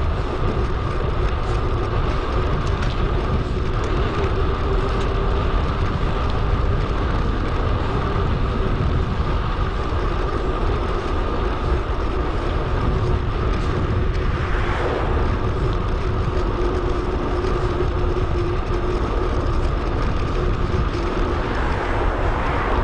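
Steady wind rush and rolling noise picked up by an action camera on a moving bicycle: a constant low rumble with a faint steady hum running through it.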